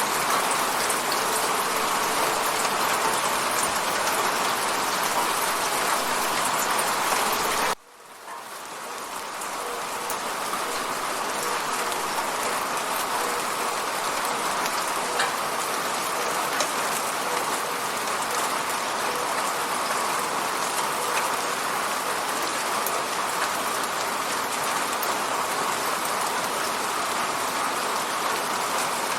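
Steady rain falling on an apartment window. About eight seconds in, the sound cuts out suddenly and fades back up over a couple of seconds.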